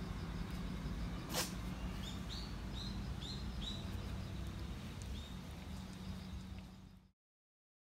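A bird calling in a string of about six short, high, rising notes over a steady low background hum, with one sharp click a little over a second in. The sound cuts off abruptly about seven seconds in.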